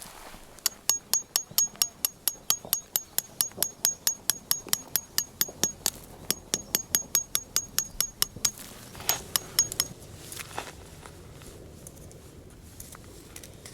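Rapid hammer blows on metal, about four a second, each with a high ringing tone; they break off briefly about six seconds in, resume, and end with a few looser strikes.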